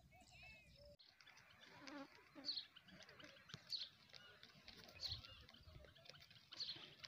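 Faint, short high bird chirps repeating about once a second over a quiet outdoor background.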